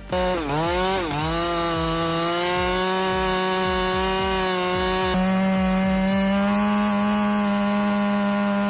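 Chainsaw running at full throttle while cutting wood; its engine pitch dips sharply twice in the first second as the chain bites into the cut, then holds steady.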